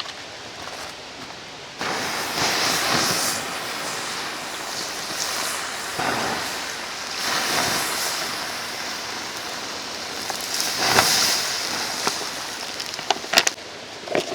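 Rushing water of a mountain stream, a steady noise that swells louder several times, with a few sharp clicks near the end.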